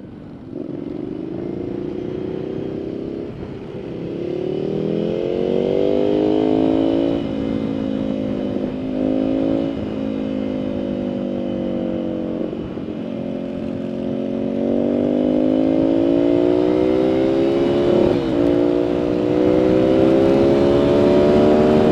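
Ducati Scrambler's 800 cc air-cooled V-twin pulling under acceleration on the motorway. Its pitch climbs and drops sharply at upshifts about 7 and 10 seconds in, then rises steadily and grows louder through the second half, with wind rushing over the microphone.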